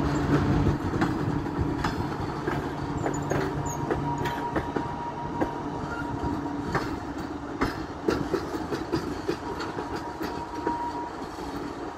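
Passenger train coaches rolling past at low speed, their wheels clicking irregularly over rail joints and points. The sound fades slowly as the train draws away.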